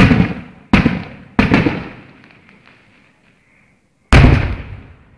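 Fireworks exploding: four loud bangs, three in quick succession and a fourth about three seconds later, each dying away in a long echoing rumble.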